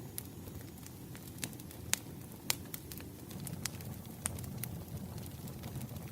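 Firewood burning and crackling: sharp, irregular pops and snaps over a low, steady rumble of the flames, with the loudest pops about two seconds and two and a half seconds in.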